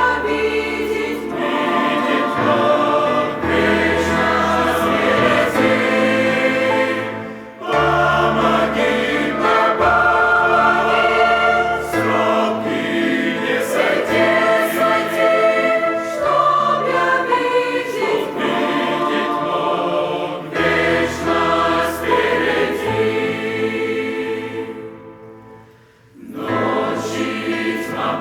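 Church choir singing a hymn in Russian, in sustained chords. It breaks briefly between phrases about seven seconds in, and fades out near the end before the next phrase starts.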